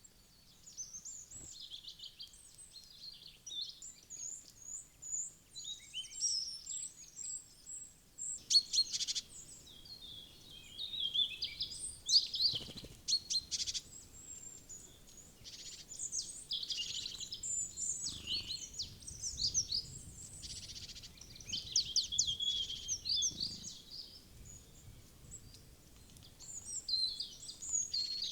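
Small wild songbirds chirping and singing in overlapping high calls throughout, with a few quick runs of sharp ticks among them.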